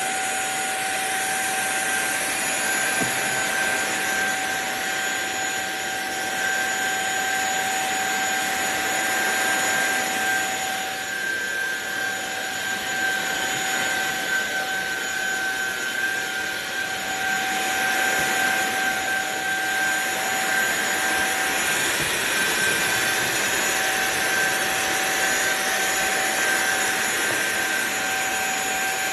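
SunSare X7A cordless stick vacuum cleaner running steadily, a high motor whine over rushing air.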